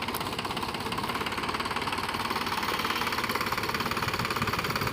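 Mahindra tractor's diesel engine running steadily with a fast, even knock.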